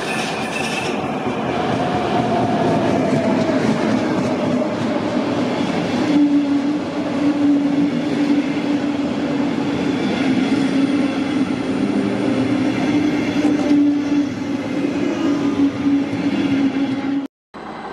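DB class 112 electric locomotive hauling a rake of double-deck coaches along the platform, with rumbling wheels on the rails. A falling whine comes in the first few seconds as it slows, and from about six seconds in a steady hum sounds as the coaches roll past. The sound cuts off abruptly near the end.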